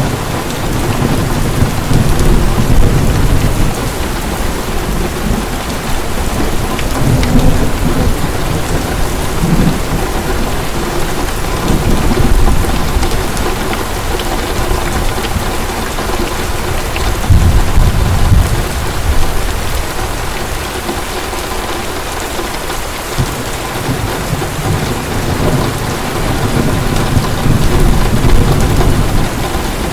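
Heavy rain falling steadily, with distant thunder rumbling low and rolling in and out several times.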